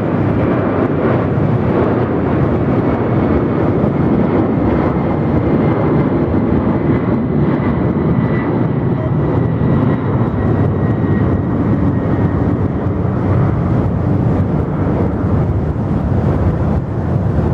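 Jet airliner's engines running loud and steady, with a faint high whine over the noise.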